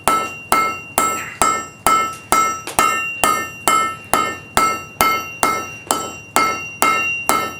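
Hand hammer forging hot carbon steel on an anvil: steady, even blows at about two a second, each with a bright metallic ring from the anvil, as the end of the bar is worked down.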